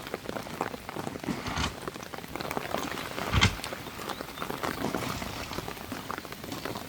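Rain pattering on a surface in many small irregular taps, with one dull thump about three and a half seconds in.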